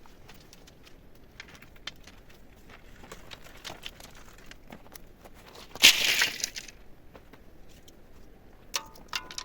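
Scattered small clicks and rustles, with one loud crunching rustle about six seconds in and a few sharp clicks near the end.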